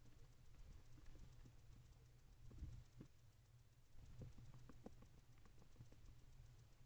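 Faint, irregular clicks and scratches from a barn owl shifting about on the floor of its wooden nest box, thickest in the middle, over a steady low electrical hum.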